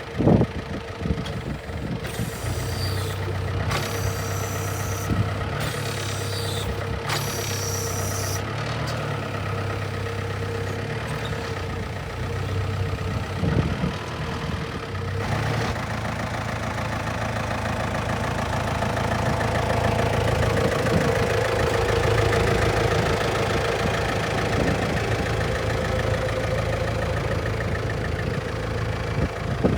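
Yale GDP 2.5 diesel forklift engine running, with a few sharp knocks in the first seconds; the engine grows louder in the second half.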